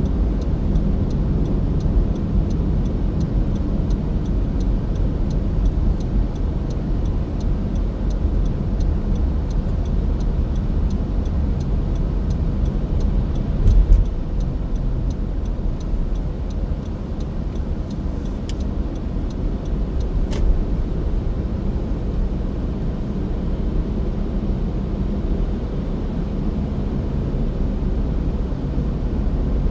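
Car driving on a winter road: a steady low rumble of tyres and engine, with faint ticking about twice a second throughout and a single thump about halfway through.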